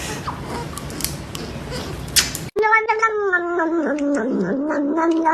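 A cat yowling in one long, drawn-out call that starts suddenly about halfway through and dips briefly in pitch before holding steady. Before it there is a faint noisy haze with scattered clicks.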